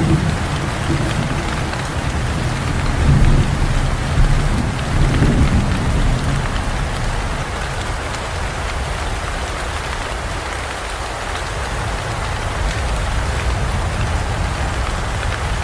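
Heavy rain falling steadily, with low rolling thunder rumbling through the first few seconds and dying away about halfway through, leaving the steady rain.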